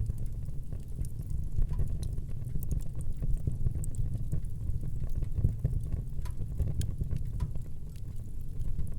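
Fire burning in a fireplace: a steady low rumble of the flames with frequent small, sharp crackles and pops.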